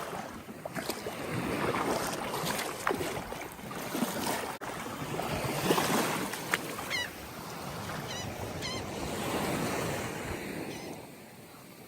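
Small waves washing up on a sandy beach and drawing back, rising and falling in swells, with a few short high chirps past the middle.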